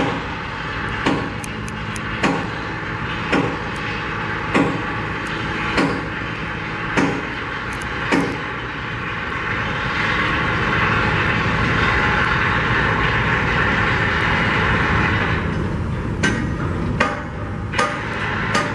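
Construction-site noise: a steady drone of machinery with sharp hammer-like knocks about once a second for the first eight seconds. A hiss follows from about ten seconds in to about fifteen, then a few more knocks near the end.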